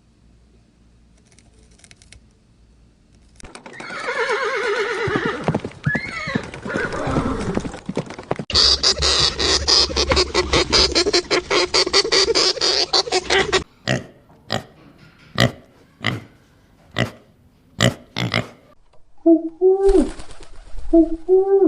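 A run of different animal calls one after another: a long wavering call, then a fast string of pulsed calls, a series of short separate calls about one a second, and near the end repeated short calls that rise and fall.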